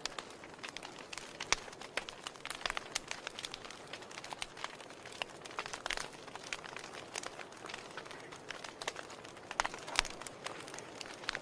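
Wood fire in a fireplace crackling, with irregular sharp snaps and pops over a soft hiss; the loudest pops come about a second and a half in and again just before the end.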